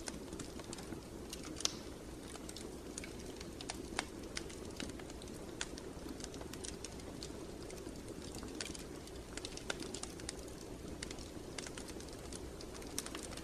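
Wood fire crackling: irregular sharp pops and snaps, a few louder than the rest, over a steady low rush of the flames.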